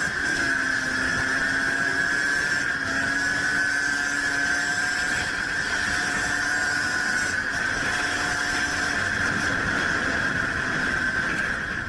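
A vehicle engine running at a fairly steady speed, with a high steady whine over it, the pitch drifting only slightly.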